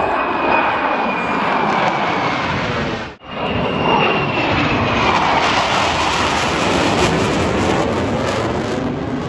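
Military jet aircraft passing overhead: a loud, rushing jet noise with a high whine that slowly falls in pitch. The sound cuts out abruptly for a moment about three seconds in, then continues.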